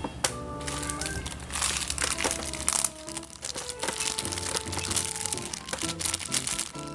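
Background music with a bouncy melody, over the crinkling of packaging being handled and torn open, busiest in the first few seconds.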